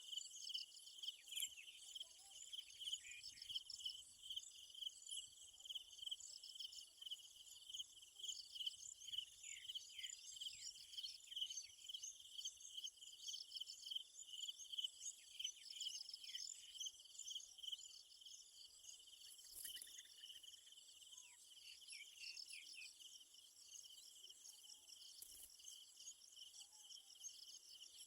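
Steady, high-pitched chorus of insects trilling, with quick pulsing throughout and a few short falling chirps mixed in.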